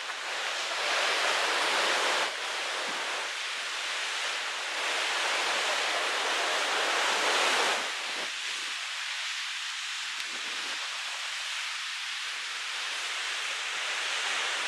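Pacific Ocean surf and wind making a steady rushing hiss that swells twice, about a second in and again from about five to eight seconds, then settles.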